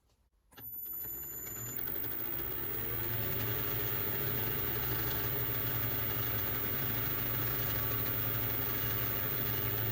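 Small metal lathe running steadily with its motor and spindle turning, a constant mechanical hum. It starts about half a second in and builds over the next two seconds or so before holding level.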